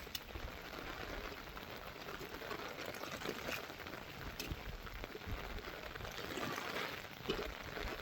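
Steady splashing, running water, broken by a few light knocks, one louder knock near the end.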